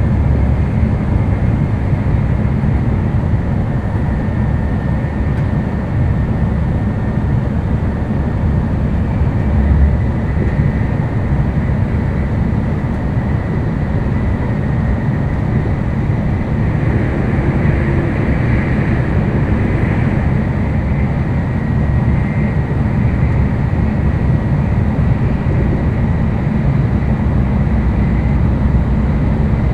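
Running noise inside the passenger cabin of an N700-series Tokaido Shinkansen train: a steady deep rumble with a faint high whine that swells slightly about two-thirds of the way in.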